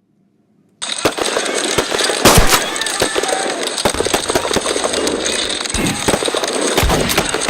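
Recreated Civil War battle: rapid, overlapping musket volleys start suddenly after a moment of silence, with men's voices shouting among them. A very loud shot comes about two seconds in, and heavy low booms, like cannon fire, come near the end.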